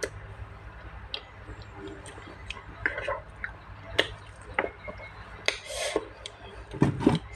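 Person eating gooseberries: irregular crunches and wet mouth clicks and smacks, the loudest cluster near the end.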